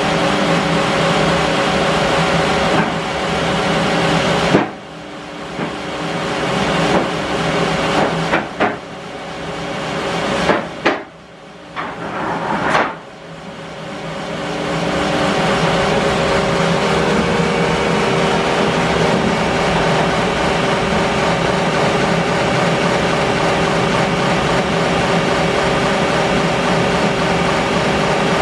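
Bandsaw mill running steadily. In the middle stretch its sound drops away and builds back up several times, with a few sharp knocks, before settling back to a steady run.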